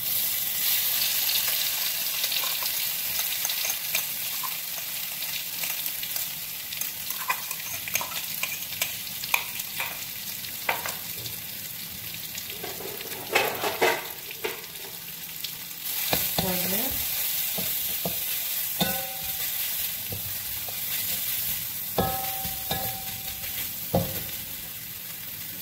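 Coarsely blended anchovy, chilli and garlic paste sizzling in hot oil in a metal wok, loudest just as it goes in. A spatula scrapes and knocks against the wok as the paste is stirred.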